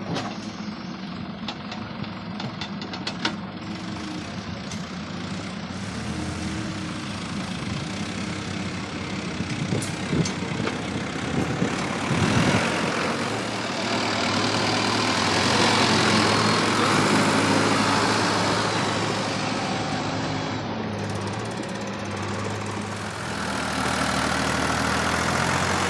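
Heavy diesel machinery engine running, its pitch shifting up and down several times as it works. It grows louder through the middle, eases off, then rises again near the end, with a few knocks about halfway in.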